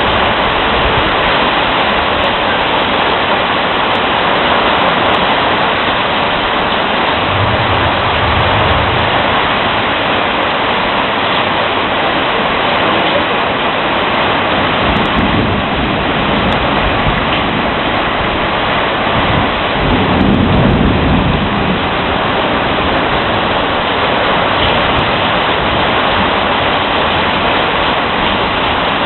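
Heavy rain pouring down steadily during a thunderstorm, with two low rolls of thunder, one about eight seconds in and a louder one about twenty seconds in.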